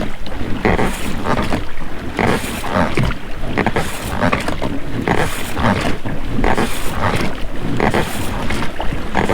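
Oars rowing an inflatable boat: the rubber rowlocks work and the blades splash in the water, about one stroke every second and a half.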